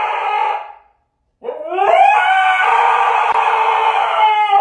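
Dog howling: one long howl ends under a second in, and another rises at its start about a second and a half in and is held for about three seconds.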